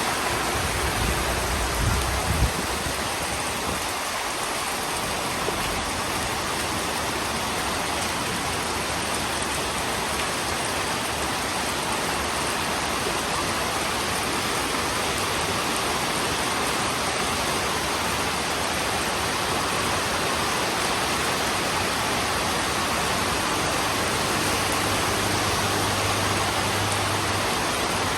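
Heavy rain falling steadily, an even hiss of downpour, with a short low rumble of thunder about two seconds in.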